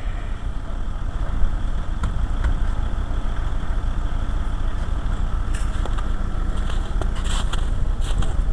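A motor vehicle's engine idling steadily, with a few light clinks and rattles in the second half.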